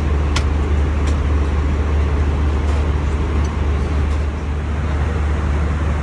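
Steady drone of an Airbus A319 cabin in cruise: engine and airflow noise with a strong low hum. A couple of faint light clicks come in the first second.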